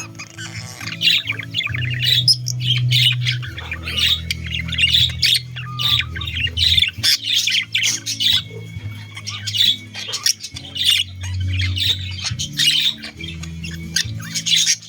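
Budgerigars chattering and squawking continuously, a dense run of rapid, scratchy calls with no real break, over background music.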